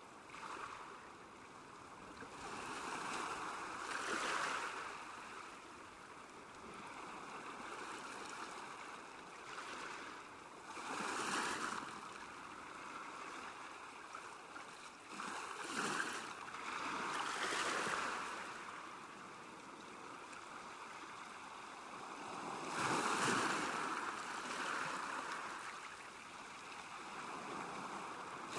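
Small waves lapping at a lakeshore: a steady wash of water that swells into a louder splash every few seconds, at uneven intervals.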